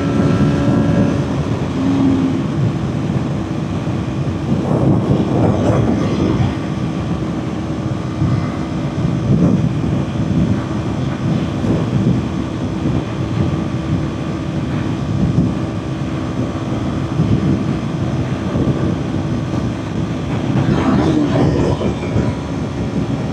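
Kawasaki Ninja 400's parallel-twin engine running steadily at highway cruise, under a constant rush of wind noise.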